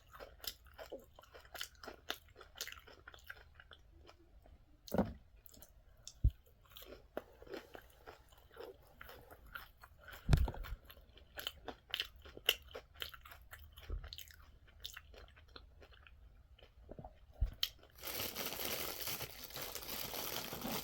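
Close-up chewing and crunching of fried food, with many small crackly bites and a few louder thumps. Near the end a steady paper or wrapper rustle starts.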